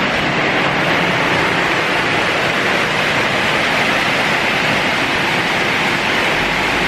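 Heavy tropical downpour: rain coming down hard, a steady loud rush of water.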